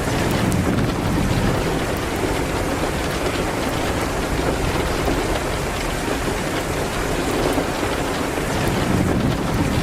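Steady rain hitting a window: an even, continuous hiss with many small scattered ticks of drops.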